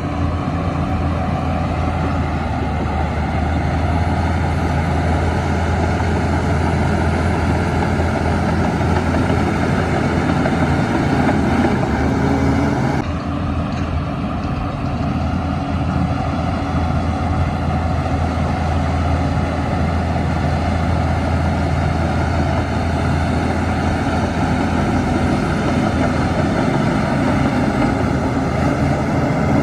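Heavy diesel earthmoving engine running steadily under load. About thirteen seconds in, the sound drops abruptly and runs on a little quieter.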